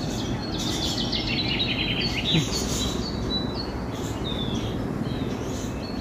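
Several birds chirping and calling, with a quick run of repeated chirps in the first half and a few short falling whistles later, over steady background noise.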